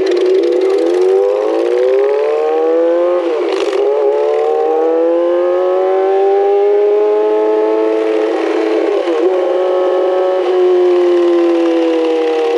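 Motorcycle engine pulling hard, its pitch climbing steadily and dropping sharply at two gear changes, one about three and a half seconds in and one about nine seconds in, then easing off near the end.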